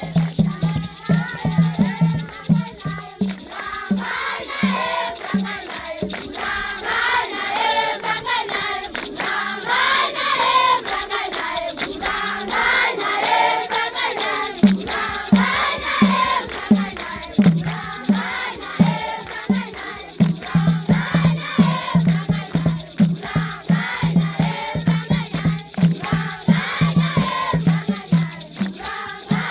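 Children singing together in chorus over a steady drumbeat and shaken rattles, traditional rain dance music. The drum falls back for several seconds in the first half, then returns.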